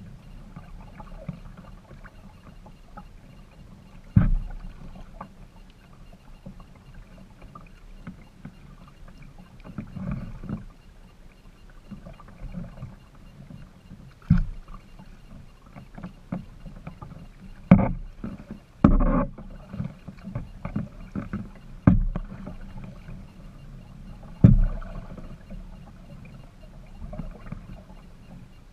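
A kayak being paddled: low water and paddle noise with irregular sharp knocks every few seconds, the loudest two close together past the middle.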